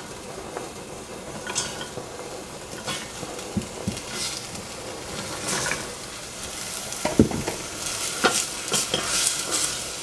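Cut yardlong beans frying in hot oil in a stainless steel saucepan, sizzling as a wooden spatula stirs them, with scattered knocks of the spatula against the pan. The sizzle grows denser in the second half, and the loudest knock comes about seven seconds in.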